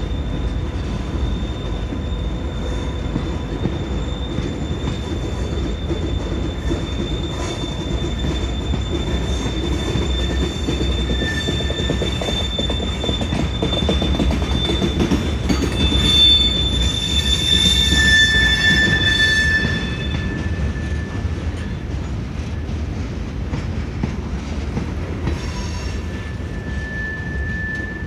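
Freight train of covered hopper cars rolling by with a steady rumble, the wheels squealing in thin high tones. The squeal swells loudest for a few seconds past the middle, then eases back.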